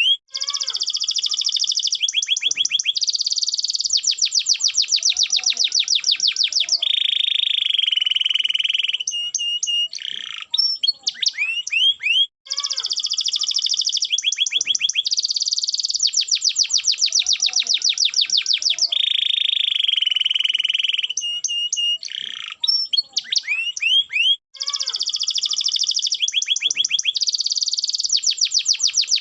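Domestic canary singing continuously in fast rolling trills, with a lower, buzzier roll in the middle of each phrase run. The same run of phrases repeats about every twelve seconds, each time after a brief break.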